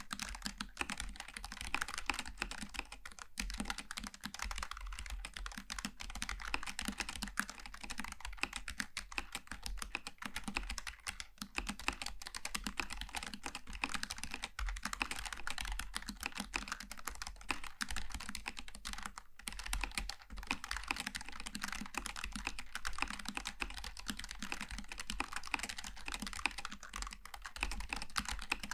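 Continuous typing on a Logitech G915 TKL low-profile mechanical keyboard with tactile switches: a dense, quick run of key clicks, with a couple of brief pauses.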